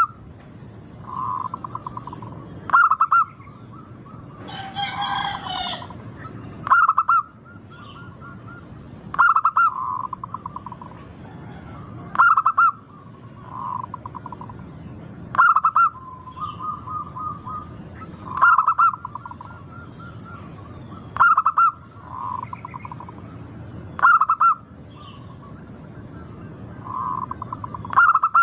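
Zebra dove (perkutut) singing its cooing song, repeating about every three seconds: each phrase starts with a loud, sharp coo and trails into softer rolling notes. A brief, different, higher call comes in around five seconds in, over a steady low background hum.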